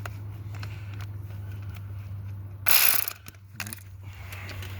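Hand ratchet wrench clicking while working a bolt on an engine. About three seconds in there is one short, loud burst of rattling.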